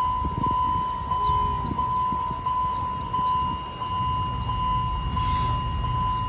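A steady high electronic warning tone that pulses regularly, about once every 0.7 seconds, over a low rumble that grows from about four seconds in. There is a brief hiss about five seconds in.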